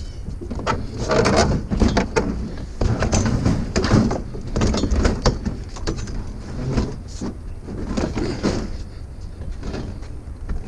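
Irregular knocking, clattering and scraping of curbside scrap being handled and shifted into place for loading, over a steady low rumble.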